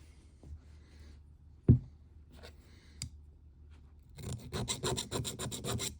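Hand tools working on a steel fixture and workpiece: a heavy thump about two seconds in, then near the end a fast run of sharp scraping clicks, about ten a second.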